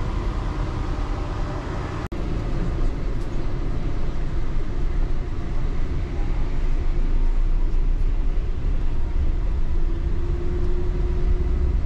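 Cabin running noise of a rubber-tyred Yurikamome guideway train on the move: a steady low rumble. It cuts out for an instant about two seconds in, then comes back a little louder, and a steady hum joins near the end.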